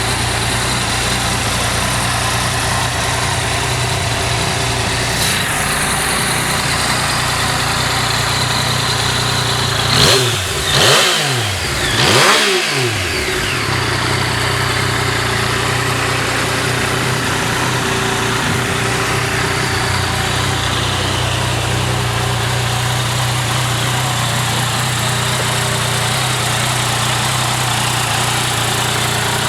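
Yamaha MT-09's inline three-cylinder engine idling steadily, with three quick throttle blips in a row, each rising and falling, about ten seconds in.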